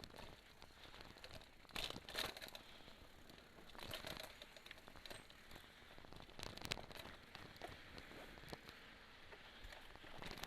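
Element Spy 2.0 mountain bike rolling along a forest dirt trail: tyres crackling and crunching over leaves and twigs, with scattered clicks and rattles from the bike, louder around two, four and six and a half seconds in.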